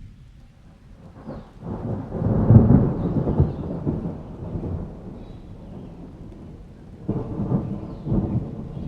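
Thunder rolling over steady rain. One long rumble swells about a second in, peaks soon after and fades out, then a second, shorter rumble comes near the end.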